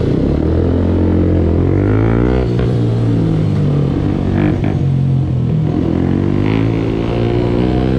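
Suzuki GSX-S125's single-cylinder engine pulling up through the revs, its pitch climbing, breaking off at a gear change about two and a half seconds in, climbing again, then dipping and rising once more near the end.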